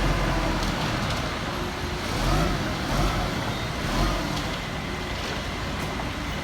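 A motor vehicle's engine running steadily, a continuous low rumble with road or outdoor noise.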